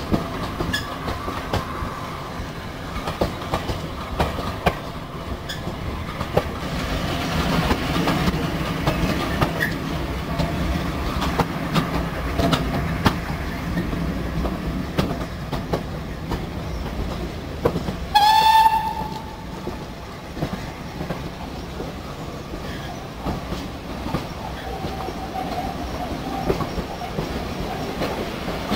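Running noise of a heritage steam-hauled passenger train heard from its coaches, with the clickety-clack of wheels over rail joints. About two thirds of the way through, one short locomotive whistle blast sounds.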